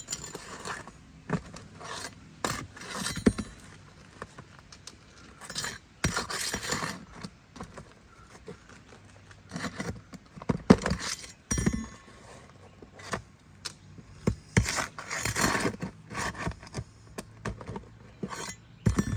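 Roof shingles being pried and unsealed by hand with a tool: irregular scraping and rubbing in bursts, broken by sharp clicks and knocks.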